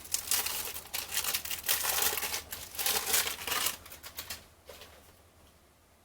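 Crinkling of a cellophane card-pack wrapper being handled, loud and dense for about four seconds, then dying down to a few faint ticks.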